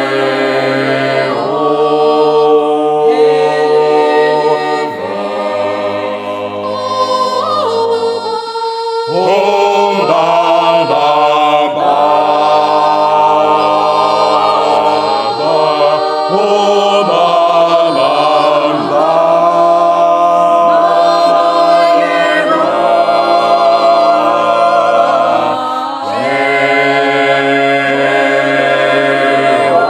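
A vocal ensemble singing a cappella in several-part harmony, holding chords that change every second or two.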